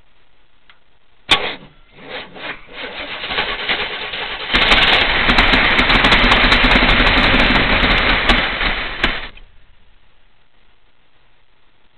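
Chevrolet 454 big-block V8 being started for the first time after sitting ten years: a sharp knock about a second in, then cranking that builds as the engine catches and runs loudly for about four seconds before it stops about nine seconds in.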